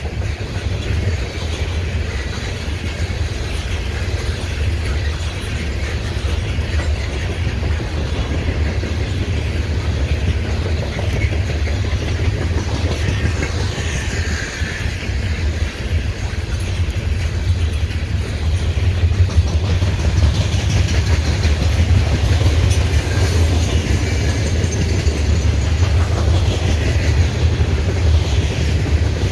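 Norfolk Southern coal hopper cars of a freight train rolling steadily past, a continuous rumble of steel wheels on rail that grows a little louder in the second half.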